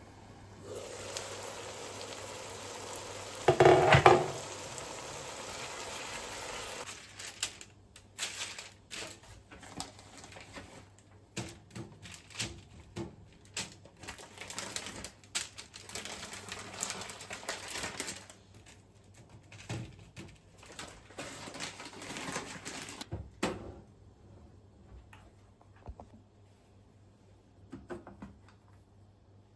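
Kitchen work: a steady hiss for about six seconds with one loud clatter in the middle, then a long run of irregular clicks and clinks of dishes and utensils being handled.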